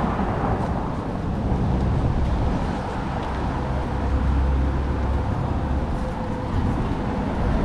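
Wind rumbling and buffeting on the camera's microphone over street traffic noise, with a faint steady engine-like hum joining about halfway through.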